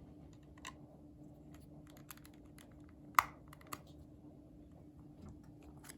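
Light plastic clicks and taps of a tool being pushed into a cordless phone handset to open its battery compartment, with one sharp louder click about three seconds in.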